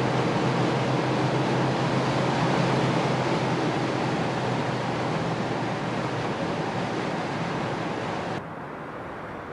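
Audi A7 50 TDI Quattro on the move: a steady rush of tyre and wind noise. It drops suddenly to a quieter level near the end.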